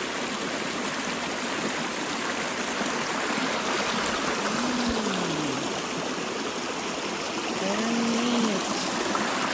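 Creek water flowing over rocks, a steady noise. Two brief rising-and-falling tones sound over it, about halfway through and again near the end.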